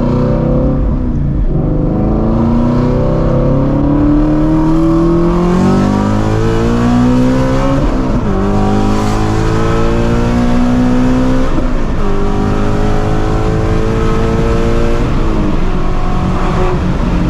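Straight-piped 2016 Ford Mustang Shelby GT350's 5.2-litre flat-plane-crank V8, with long-tube headers, pulling hard under full acceleration. Its exhaust note rises steadily in pitch, then drops and climbs again at each of three quick upshifts of the manual gearbox.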